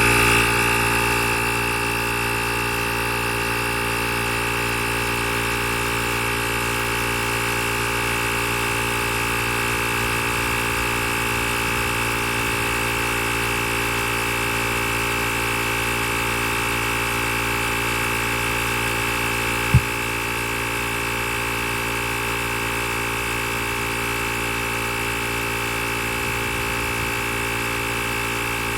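Small electric air compressor built into a YaberAuto jump starter pack, switching on abruptly and running steadily with a buzzing whine. A single sharp click comes about twenty seconds in.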